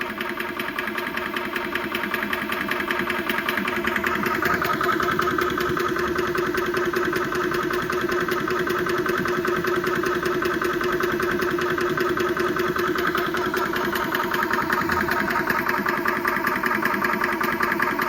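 Yong Heng 4500 psi high-pressure air compressor running steadily, its pump chugging with a fast even pulse as it builds pressure.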